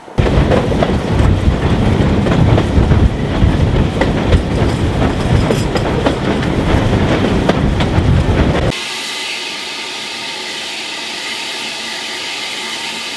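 A train passing close by, its wheels clattering over the rail joints. About nine seconds in the sound cuts off suddenly and a quieter, steady hiss takes over.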